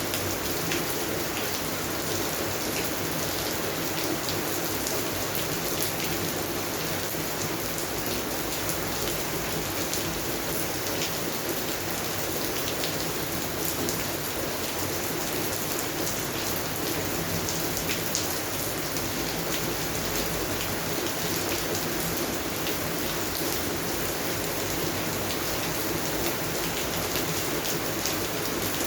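Steady rain falling on garden plants, with many small drops pattering.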